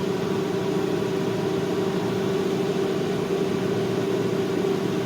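Microwave oven running with a steady hum while heating a bar of soap.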